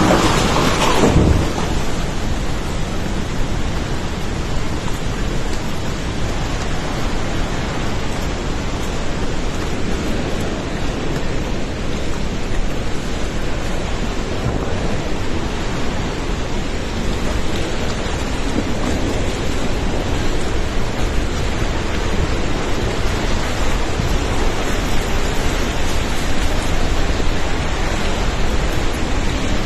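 Steady, loud rush of a mountain river in flash flood, its churning floodwater roaring without a break. The flood is suspected to come from a glacial lake outburst.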